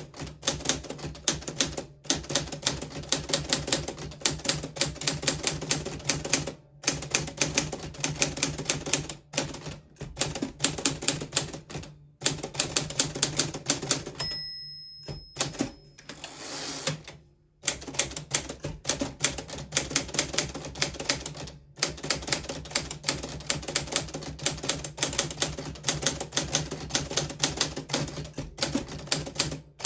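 1940s Smith Corona Silent manual typewriter being typed on: rapid, uneven runs of keystrokes with short pauses. About halfway through there is a longer break with a brief ringing tone and then a short rasp before the typing resumes.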